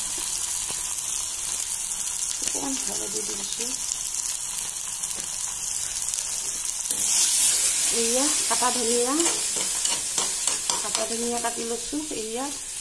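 Onion and spice masala sizzling in hot oil in a kadai, a steady hiss that grows louder about seven seconds in.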